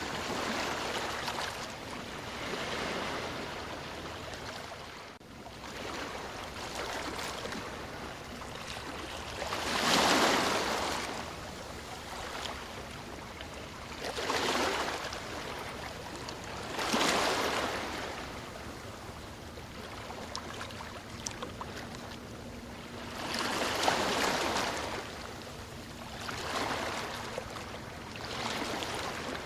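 Ocean waves breaking and washing on a shore, a steady surf noise with louder swells every few seconds.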